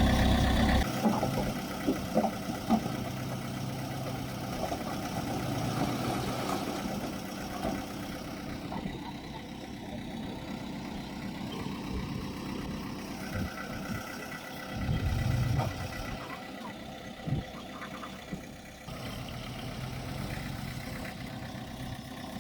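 Heavy earthmoving machinery's diesel engines running, loud for the first second and then steadier and quieter. Scattered knocks and a brief louder surge come about two thirds of the way in.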